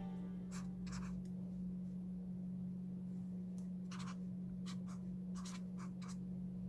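Short scratching strokes on paper while decorating a diary, about seven in all: a couple in the first second, then a cluster from about four to six seconds in. A steady low hum runs underneath.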